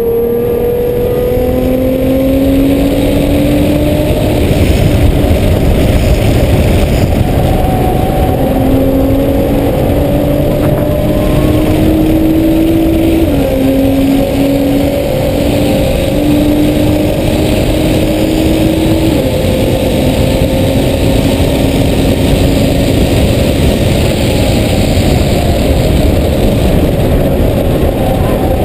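A sports car's engine heard from inside the cabin on a track lap, its pitch climbing slowly as the car accelerates and stepping down sharply twice, over heavy road and tyre noise.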